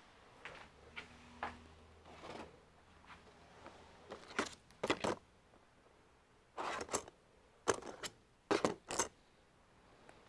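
Irregular sharp clicks and short scrapes of hands working on the opened all-in-one computer's plastic and metal parts, most of them from about four seconds in.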